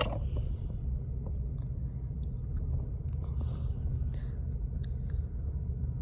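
Metra commuter train passing, a steady low rumble with a few faint light clicks.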